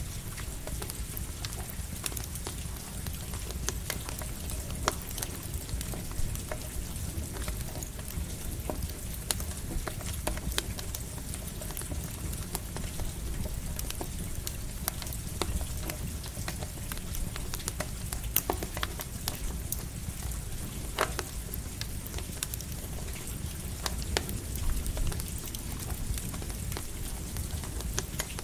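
Campfire crackling, with irregular sharp pops, over a steady patter of light rain and a constant low rumble.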